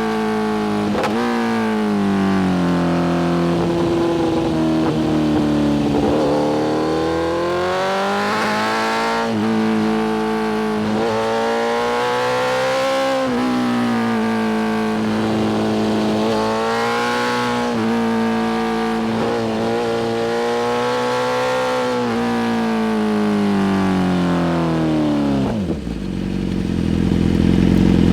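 BMW S1000RR inline-four engine through a full titanium Spark exhaust, riding on the road: the pitch climbs and drops repeatedly with quick steps as it shifts gears under acceleration. About 25 seconds in the revs fall sharply as it slows, leaving a lower, steadier engine sound near the end.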